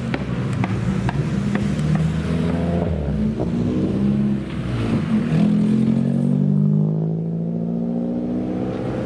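Modified car's engine accelerating: its pitch climbs for a few seconds from about three and a half seconds in, then holds steady. A few sharp clicks in the first two seconds.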